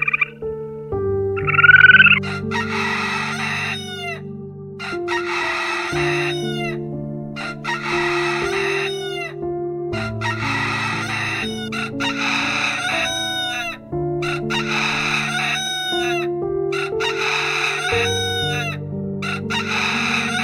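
Grey-headed swamphen giving loud, harsh calls over and over, about one every two seconds, over background music with slow sustained chords.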